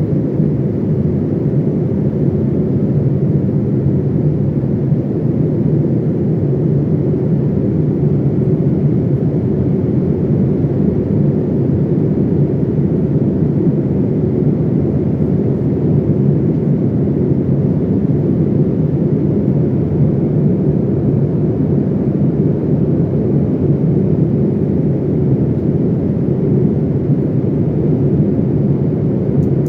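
Steady, deep rushing drone of an airplane in flight, engines and airflow heard from inside the cabin.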